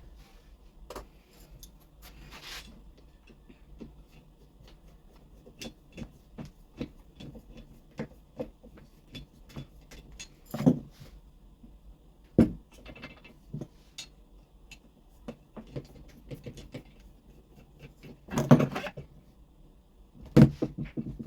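Scattered clicks, taps and clinks of tools and small parts being handled at a workbench, with a few louder knocks, two of them near the end. No power tool is running.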